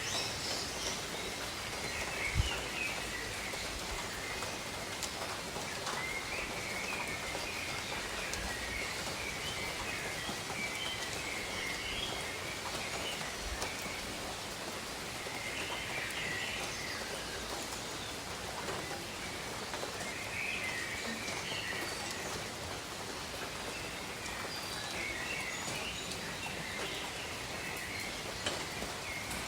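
Steady rain falling over rainforest, with birds calling in short bursts every few seconds.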